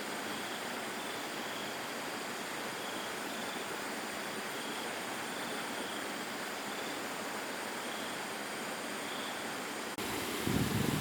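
Steady rushing noise, with faint short high chirps repeating through it. Near the end the sound changes abruptly and strong low gusty rumbles come in.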